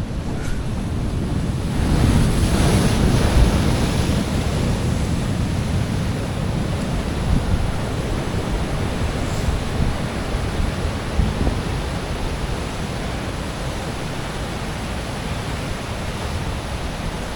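Ocean surf breaking and washing against a rock ledge in a heavy swell, with wind buffeting the microphone; the surf swells louder about two seconds in.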